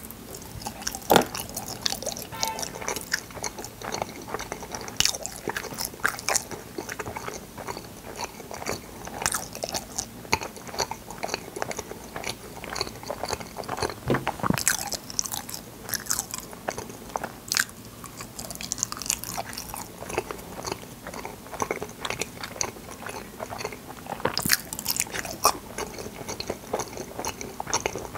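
Close-miked eating of fruit yanggaeng: biting and chewing the soft, firm jelly, full of irregular sticky wet clicks and smacks, with a few louder ones now and then.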